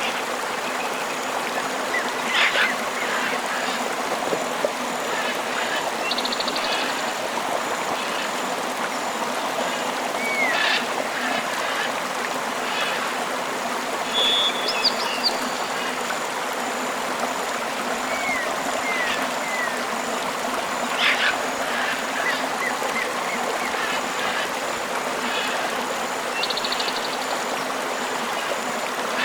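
A tropical river flowing steadily, with bird calls scattered over it: short chirps and little whistled slurs every few seconds, and twice a rapid buzzy trill.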